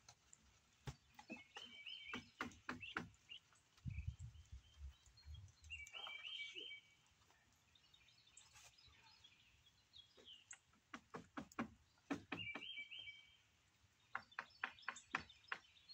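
Faint bird chirping in three short bouts, spread across several seconds, among scattered light taps and knocks that come in small clusters, with a brief low rumble about four seconds in.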